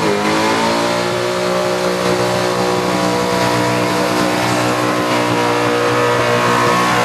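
VL Calais burnout car's engine held at high revs during a burnout: its note dips briefly right at the start, then holds steady and creeps slowly higher.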